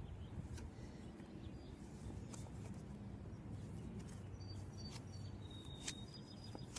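Outdoor background of a steady low rumble, with a few short high bird chirps in the second half and a few faint clicks.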